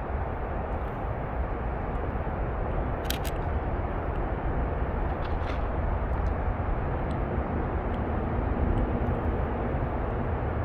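Camera shutter clicking: a quick double click about three seconds in and fainter single clicks around it, over a steady low rumble.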